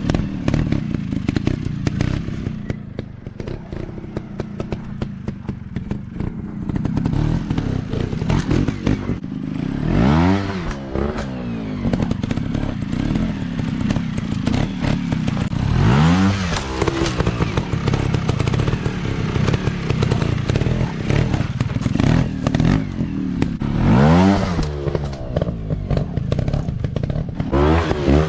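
Off-road dirt bike engines running at low revs with repeated throttle blips, the revs rising and falling about four times, amid clattering and knocks.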